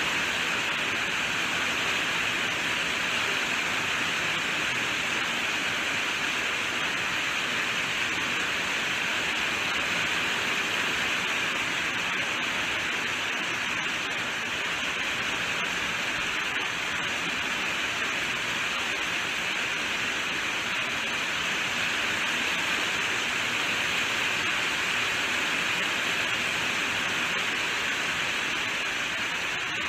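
Steady rainfall, an even hiss without individual drops standing out.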